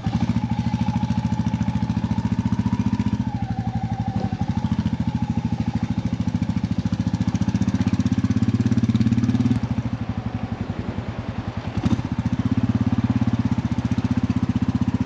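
Royal Enfield motorcycle engine running at low revs with an even, rapid pulsing beat.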